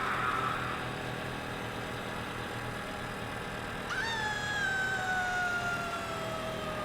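A sustained pitched tone starts suddenly about four seconds in and glides slowly downward for about three seconds, over a low steady hum.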